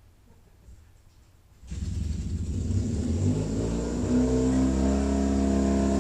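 Motorcycle engine starting up abruptly about a third of the way in, its revs rising over the next couple of seconds and then holding steady.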